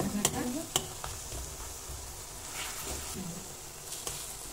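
Baingan bharta (mashed eggplant) sizzling in oil in a metal kadhai while a perforated metal spatula stirs and scrapes it, with a few sharp clicks of the spatula against the pan in the first second. The mash has released its oil, which the cook takes as the sign that it is done.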